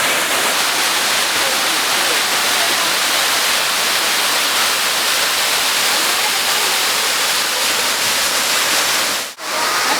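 Waterfall rushing steadily, a loud even roar of falling water that cuts out for a split second about nine seconds in.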